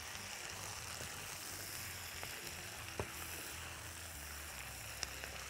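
Sliced onions and carrots sizzling quietly and steadily as they fry in a pot while being stirred with a silicone spatula. Two light knocks, about three and five seconds in.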